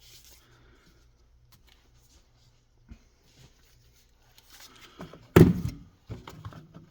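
Quiet handling of a replacement power-tool battery and its packaging, then a single loud thunk about five seconds in.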